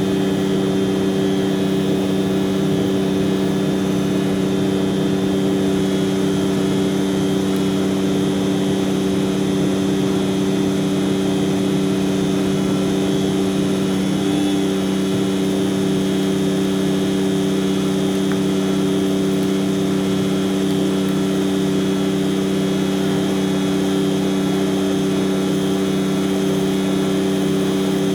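Tanker truck machinery running at a constant speed: a steady drone with several held tones that never changes pitch or level.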